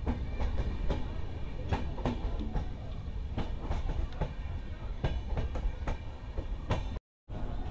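Passenger express train running on the track, its steel wheels clacking and knocking irregularly over rail joints above a steady low rumble. The sound cuts out briefly near the end.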